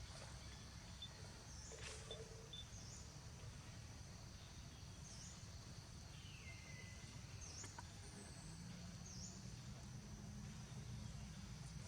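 Faint outdoor ambience: a steady high insect drone with short chirps repeating every second or two over a low rumble, and one falling call near the middle.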